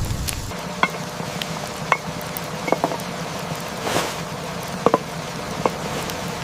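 A handful of light, ringing clinks, like a utensil tapping a cooking pot, over a steady hiss of rain.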